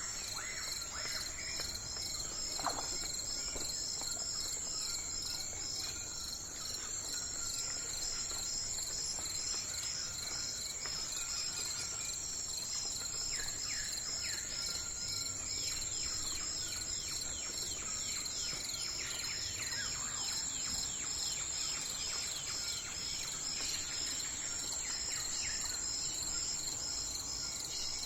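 Crickets or other insects trilling steadily in a high, rapidly pulsing chorus, with birds giving series of short downward-sliding calls through the middle and again near the end.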